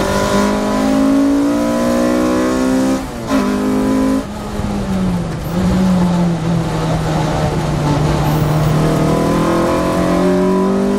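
2005 Lotus Elise's four-cylinder engine running hard in third gear near 5,000–6,000 rpm, with wind and road noise inside the cabin. The note dips and breaks briefly about three seconds in as the throttle lifts, runs lower through the middle, and climbs again toward the end as the driver gets back on the power.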